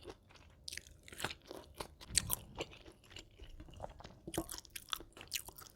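Close-miked chewing of crunchy vegetables, crisp crunches coming a few times a second.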